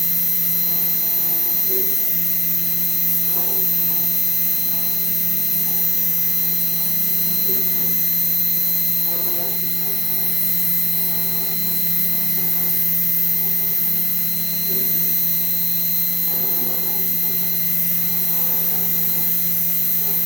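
Fox Alien XE-PRO CNC router running: a steady hum with a fixed high whine, and short pitched motor sounds that come and go every few seconds.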